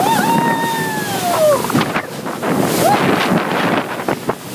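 Wind buffeting the microphone and water rushing past a small boat under way. A high whooping cry falls in pitch over the first second and a half, and a short rising cry comes near three seconds.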